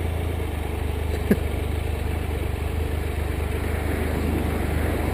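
Motorcycle engine running steadily, a constant low drone, with one short click about a second in.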